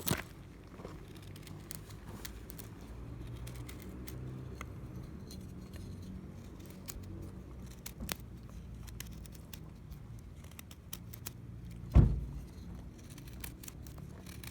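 Scattered small clicks and light jingling over a low steady rumble, with one loud thump about twelve seconds in.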